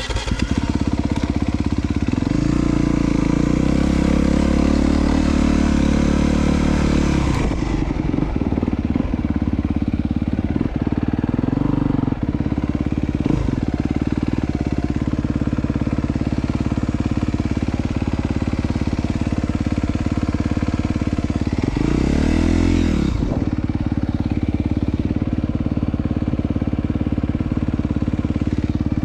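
2022 Honda CRF250R's single-cylinder four-stroke engine running: it revs up for several seconds near the start, drops back, then runs steadily, with one short rev blip about 22 seconds in.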